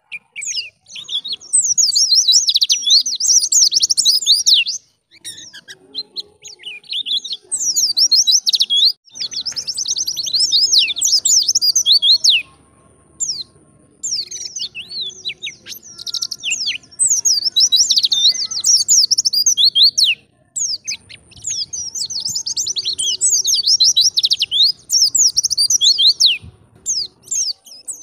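Wild white-eye (pleci) singing: fast, high twittering phrases of rapid chirps delivered in dense bouts a few seconds long, with brief pauses between them.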